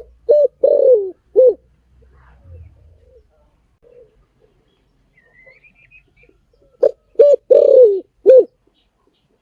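Spotted dove cooing: two phrases of low coo notes, one at the start and one about seven seconds in, each with a longer falling coo among short ones. A faint chirp from another bird comes between them.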